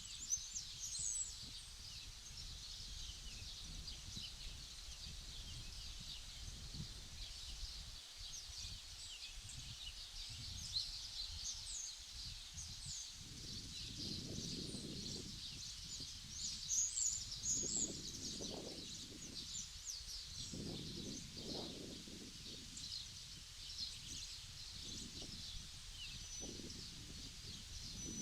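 Many small birds chirping busily in high, short notes. From about halfway, a low rushing noise swells and fades every second or two.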